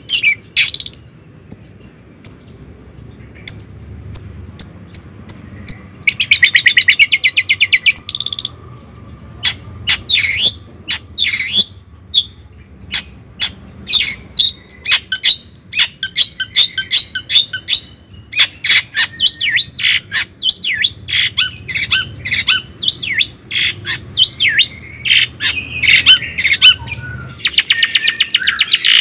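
Bird chirping close by: many short, sharp chirps, with a fast trill of rapidly repeated notes lasting about two seconds, beginning about six seconds in, and another trill near the end.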